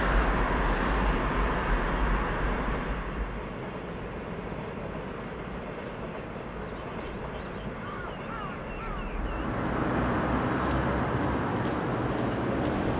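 Distant freight train rumbling across a steel bridge, fading away over the first few seconds. A few short bird chirps follow, then a steadier, louder background rumble rises about two thirds of the way in.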